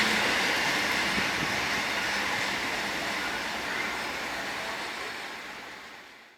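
Freight train rolling past on the track, a steady rumble and rail noise that dies away gradually and fades to nothing near the end.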